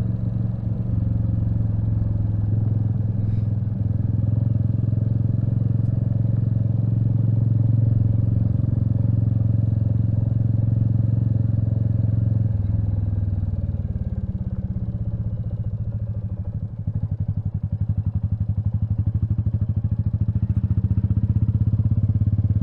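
Royal Enfield Meteor 350's single-cylinder engine running while riding, easing off about twelve seconds in, then running slowly with a steady rapid pulse.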